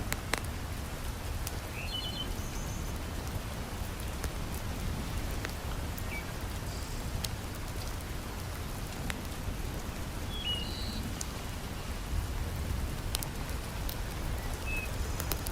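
Heavy rain falling steadily, a dense hiss with a low rumble underneath, with scattered sharp clicks and a few brief high chirps.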